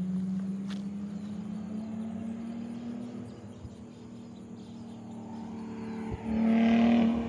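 2003 Audi A4's engine, exhaust cut off behind the catalytic converters, driving by: a steady note that climbs gently, eases off, then turns much louder about six seconds in as the car accelerates. With no pipe after the cats it still sounds kind of quiet and tame.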